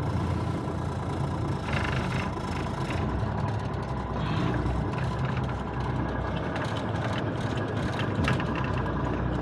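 The diesel engine of a 1985 Freightliner cabover semi truck running at low speed while the truck is slowly maneuvered, a steady low rumble. Brief hissing noises come about two and four seconds in, and a sharp click near the end.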